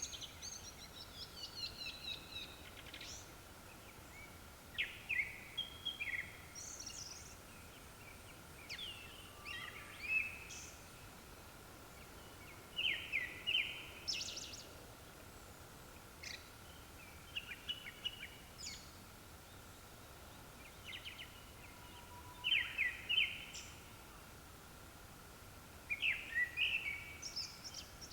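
Japanese thrush singing: short, varied whistled phrases repeated every couple of seconds, over a faint steady tone.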